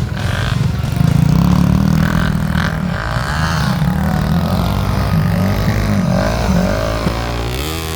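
Off-road motorcycle engines revving, the pitch rising and falling again and again as the throttle is worked.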